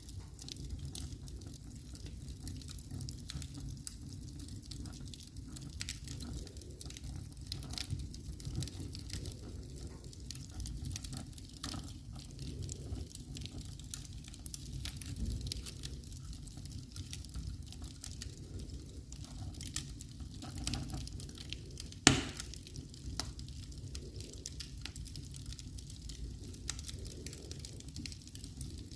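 Fireplace fire crackling with scattered small pops over a low steady rumble, and one loud pop about three quarters of the way through.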